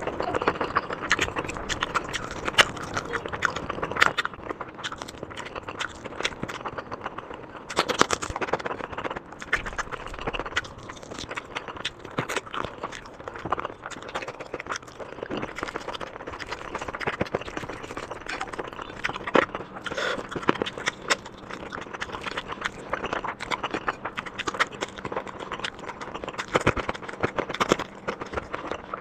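Close-miked mukbang eating sounds: wet chewing and mouth smacking in many quick, irregular clicks and crackles.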